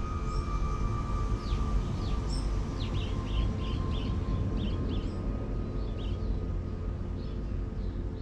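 Small birds chirping: quick falling chirps and a short run of repeated notes a few seconds in, over a steady low rumble. A held ringing tone fades out over the first few seconds.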